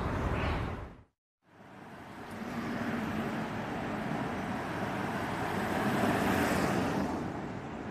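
Road traffic noise, with a steady rumble of passing vehicles that swells as one goes by about six to seven seconds in. It is broken by a brief total silence about a second in.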